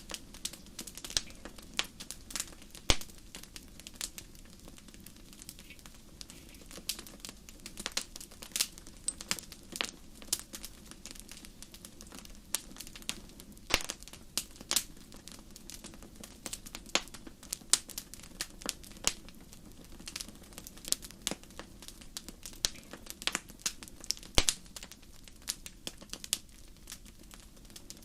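Wood fire in a fireplace crackling, with frequent sharp irregular pops and snaps over a faint low rumble of the flames.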